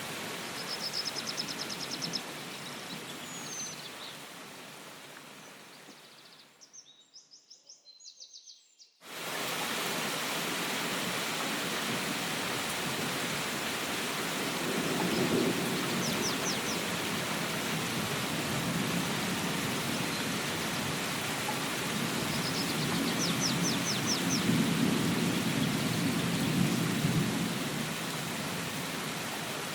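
Steady rain falling, with low rumbles of distant thunder swelling twice in the second half and a bird's short runs of rapid high chirps now and then. Early on the rain fades almost away, then cuts back in suddenly.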